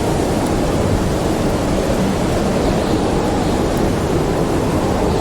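Snowstorm wind: a steady, loud, low rushing noise with no breaks.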